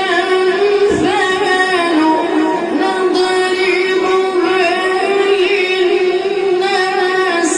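A child's voice chanting a Quran recitation melodically, holding long notes and bending them in ornamented turns.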